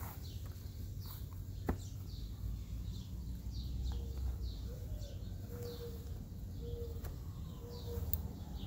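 A bird calling over and over, a short falling chirp about once or twice a second, over a steady low outdoor rumble, with a few faint clicks.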